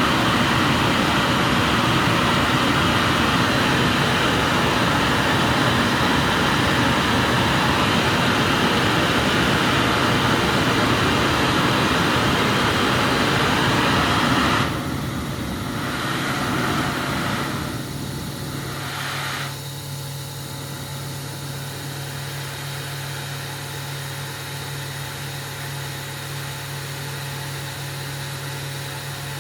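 Glassblower's gas burner flame running with a steady, loud rushing noise, turned down in steps about fifteen seconds in and shut off about five seconds later. A low, steady machine hum is left running.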